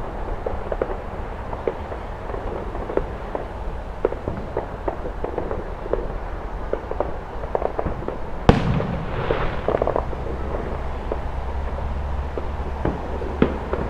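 Distant fireworks popping and crackling over a city, with many small reports throughout and one much louder bang about eight and a half seconds in that trails off.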